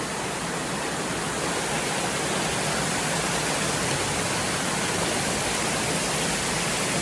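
Steady, loud rush of fast-flowing creek water.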